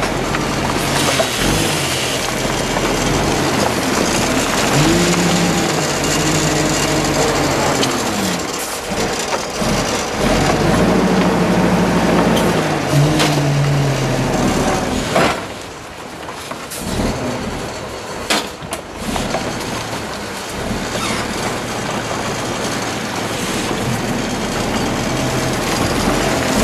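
Heavy road-construction machinery engine running and revving up and down repeatedly under load. Past the middle it goes quieter for a few seconds, with a few sharp knocks.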